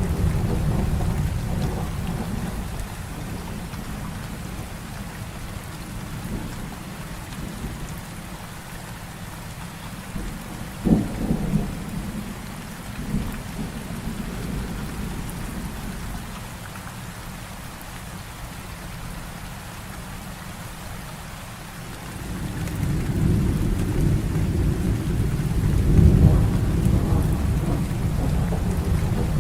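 Heavy rain falling steadily during a thunderstorm, with thunder rolling low. A rumble dies away over the first few seconds, and sharp thunder cracks come about 11 and 13 seconds in. A new roll of thunder builds about two-thirds of the way through and peaks near the end.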